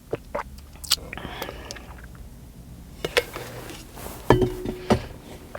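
Scattered clicks, knocks and light clinks of food containers and utensils being handled, with a brief squeak about four seconds in.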